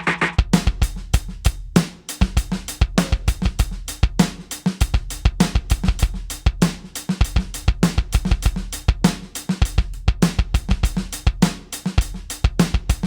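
KAT Percussion KT4 electronic drum kit played as a drum-kit groove through one of its kit presets: kick, snare, hi-hat and cymbal sounds in a steady rhythm.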